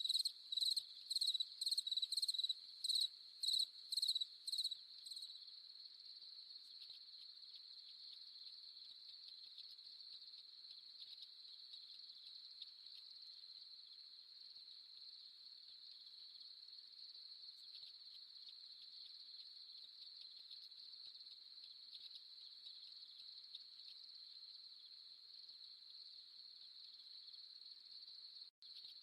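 Crickets chirping: loud, evenly spaced high chirps about two a second for the first five seconds, then a steady, quieter high trill that carries on alone, with a split-second dropout near the end.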